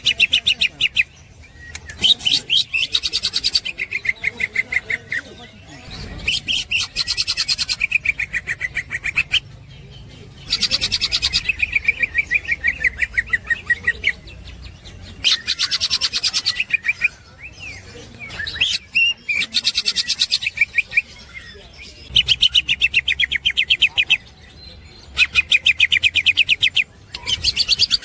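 Green leafbird (cucak hijau) calling in its 'ngekek' chatter: bursts of very fast, rattling repeated notes, each burst a second or two long, coming again and again with short breaks.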